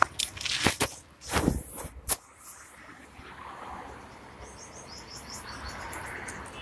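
A few sharp knocks and rustles in the first two seconds, then a small bird chirping in quick, short, high notes over the last two seconds.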